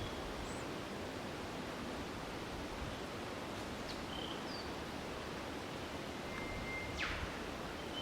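Bush birds calling sparsely over a steady outdoor hiss: a few short high chirps and notes. Near the end comes one held whistle that ends in a sharp whip-like downward sweep.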